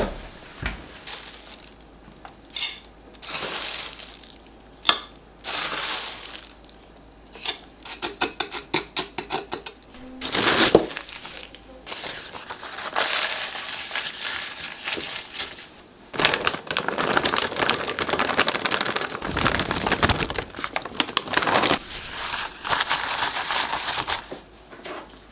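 Kitchen handling noises: plastic crinkling, crushing and knocking of containers while garlic is portioned for storage, with a quick run of small ticks partway through.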